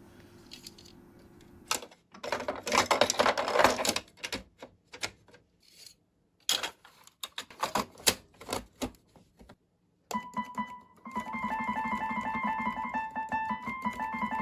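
A run of clicks and knocks for several seconds, then, from about ten seconds in, the Casio CTK-6300IN keyboard sounding steady repeated notes: the repaired key now plays.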